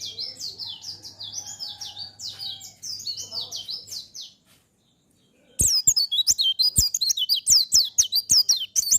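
Pleci (white-eye) singing a fast run of high chirping notes. It stops about four seconds in, then starts again louder about a second and a half later, with sharp clicks mixed into the song.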